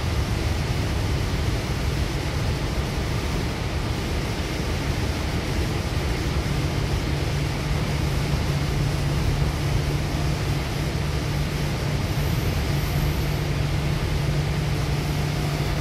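Steady running noise inside a Goninan K-set double-deck electric train at speed: wheels on rail with a low hum underneath, the hum growing a little stronger about halfway through.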